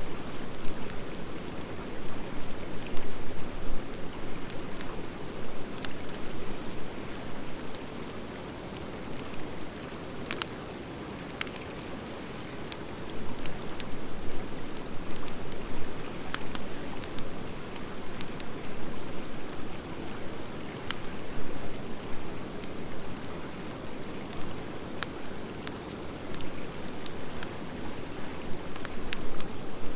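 Wood campfire of driftwood and dry hardwood burning with a steady low rush of flame, rising and falling, and scattered single sharp crackles and pops, about every few seconds.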